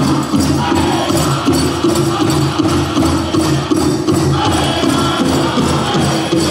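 Powwow drum group singing over a big drum struck in a steady, even beat, a song for the grass dancers' competition round.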